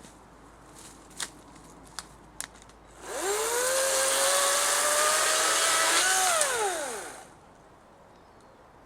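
A few light clicks, then a battery-powered electric chainsaw is triggered: its motor spins up with a rising whine, runs for about three seconds, and winds down with a falling pitch when it is released.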